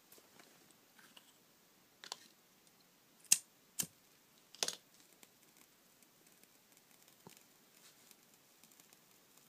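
A handful of sharp, irregularly spaced clicks and taps, the loudest a little over three seconds in, over a faint steady hiss.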